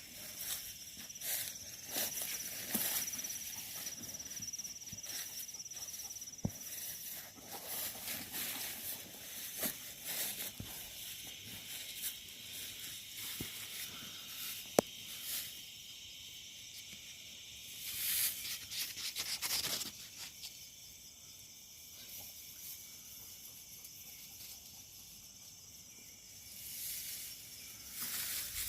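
Footsteps crunching and rustling through dry leaf litter, with a steady high insect chorus of crickets or katydids behind. A single sharp click comes about fifteen seconds in.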